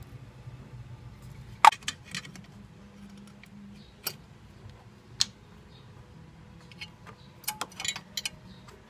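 Scattered sharp metallic clicks and clinks of a screwdriver and small parts being handled, about a dozen in all, the loudest a little under two seconds in and a quick cluster near the end.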